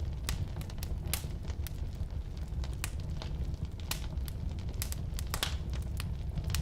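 Firewood burning in a fireplace: a steady low rumble of flames with irregular sharp crackles and pops from the wood.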